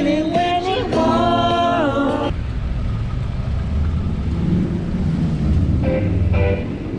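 Street traffic from a bicycle ride: a pitched tone for about two seconds that slides down and stops, then a vehicle's low rumble, with pitched sounds returning near the end.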